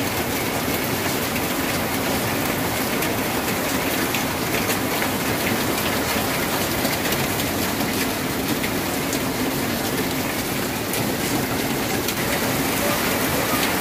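Steady rain falling on a tin roof: a dense, even patter of drops on the metal sheets.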